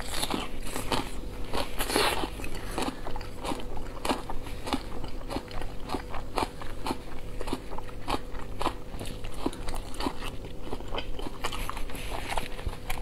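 Close-miked chewing of boiled dumplings: wet mouth clicks and smacks in a fast, irregular patter.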